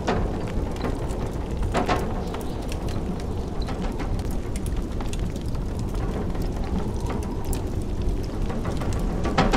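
Wood fire crackling and popping, with a few louder pops near the start, about two seconds in and near the end, over a steady low rush of blizzard wind.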